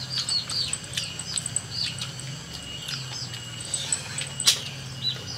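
Small birds chirping in quick, short, high chirps, several a second, over a low steady hum, with one sharp click about four and a half seconds in.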